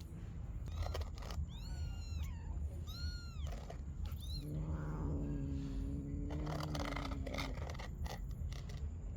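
Kittens meowing: several short, high-pitched meows that rise and fall in pitch, followed by a lower, drawn-out steady-pitched call lasting about three seconds, over a constant low rumble.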